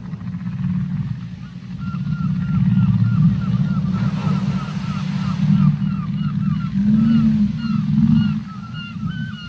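Underwater whale calls: a run of short, repeated chirping calls, about three or four a second, starting about two seconds in, over a steady low rumble.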